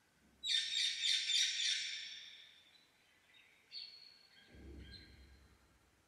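Alexandrine parakeet screeching: a loud run of about six rapid, harsh calls lasting a second and a half, then a shorter call about two seconds later. A low thump comes near the middle.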